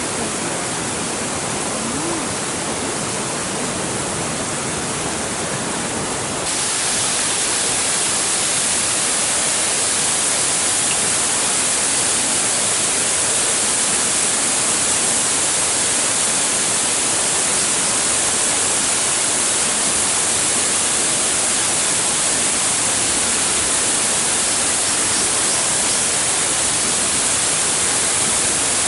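Steady rush of water in a mountain stream with waterfalls, stepping up louder and brighter about six seconds in.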